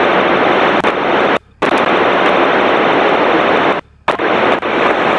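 Radio scanner putting out loud, steady static hiss between dispatch transmissions, as on an open channel carrying no voice. It cuts out abruptly twice for a moment, once at about a second and a half and again near four seconds.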